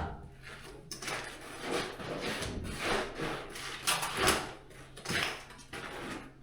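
A run of irregular scrapes and knocks, roughly one or two a second, from work going on in the room.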